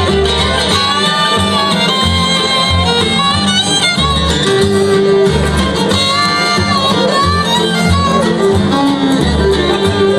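Bluegrass band playing an instrumental break led by fiddle, with guitar and a bass line keeping a steady beat underneath.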